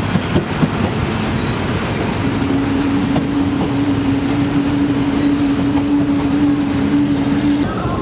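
Passenger train running, a dense steady rumble, with a single steady tone coming in about two seconds in and held for about five seconds before stopping shortly before the end.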